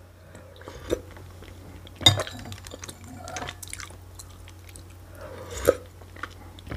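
A person chewing a mouthful of okroshka close to the microphone, with sharp clinks of a metal spoon against a glass bowl, the loudest about two seconds in and shortly before the end.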